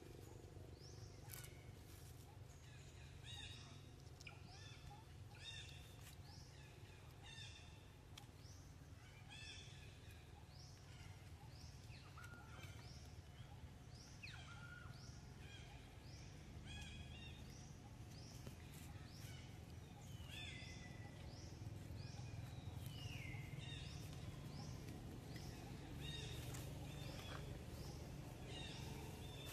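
Birds chirping over and over, many short calls that slide down in pitch, faint over a low steady rumble.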